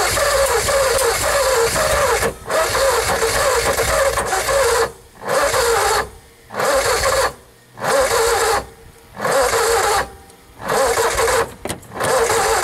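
1959 Ford Custom 300's 292 V8 being cranked over by its starter in repeated bursts a second or two long, chugging without catching. The battery lacks the power to start it.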